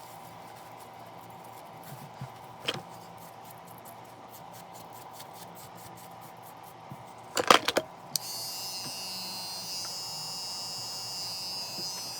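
Cordless electric hair clippers: a few sharp clicks and knocks, the loudest in a quick cluster, then about eight seconds in a clipper switches on and runs with a steady high-pitched buzz.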